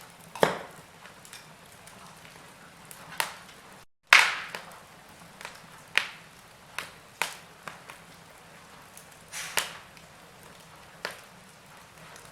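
Wood fire crackling in a fireplace: sharp, irregular pops roughly once a second over a faint hiss. The sound cuts out for a split second about four seconds in, and the loudest pop comes right after the gap.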